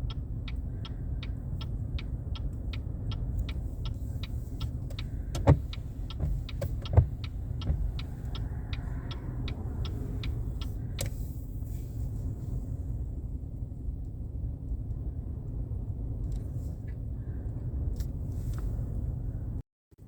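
Low, steady rumble of a car idling, with wind on the microphone. A regular ticking, about three or four a second, runs through the first half and stops about eleven seconds in, with a couple of louder knocks along the way.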